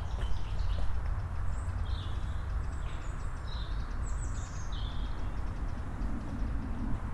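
Small birds calling in short, high chirps, about six times, over a steady low rumble, with the footsteps of a walker on a path.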